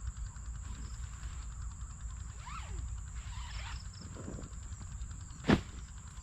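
Insects trilling steadily on one high pitch over a low, even rumble, with a few faint sliding chirps near the middle and one sharp knock about five and a half seconds in.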